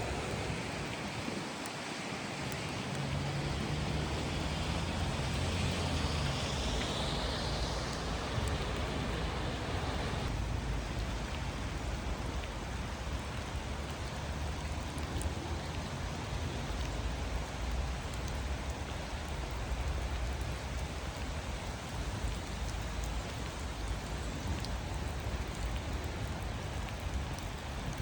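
Steady rain falling and pattering on surfaces. During the first ten seconds or so, a vehicle hum and hiss swells and fades away.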